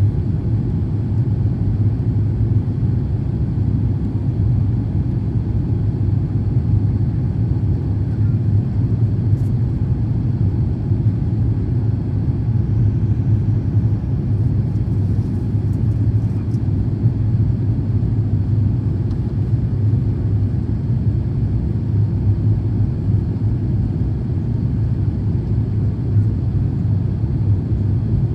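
Steady low cabin drone of an Airbus A350-1000 airliner in flight, the sound of its engines and the air rushing past the fuselage heard from inside the passenger cabin.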